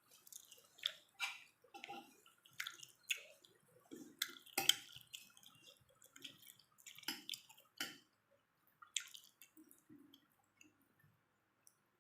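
Chewing and mouth clicks of someone eating pork: a run of irregular short, sharp clicks that thins out after about eight seconds.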